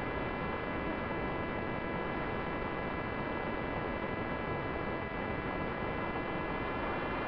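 Steady electronic hum and hiss: a set of fixed, unwavering high tones over an even noise bed, with no change in pitch or level.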